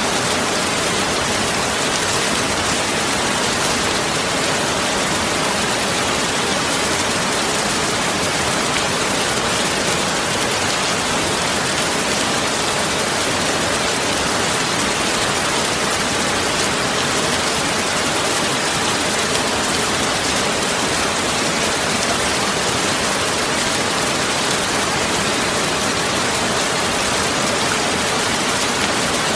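Steady heavy rain falling as an even, unbroken hiss.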